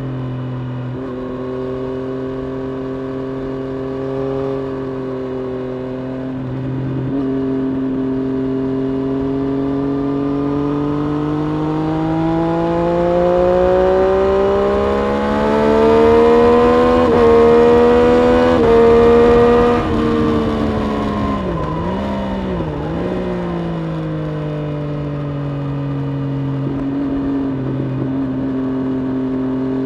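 Triumph Street Triple RS motorcycle's 765 cc inline-three engine on track, holding steady revs at first, then revving up through the middle with short steps as it shifts gears, and wind rushing louder at the fastest point. Past the middle the revs drop away with a couple of quick dips and blips, as on braking and downshifting, and the engine then settles back to steady revs.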